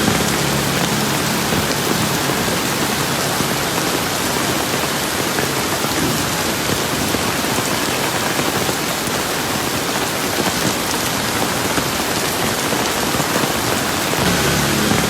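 Steady rain falling on surfaces, an even, dense hiss of many drops. A faint low hum sits under it for the first few seconds and comes back near the end.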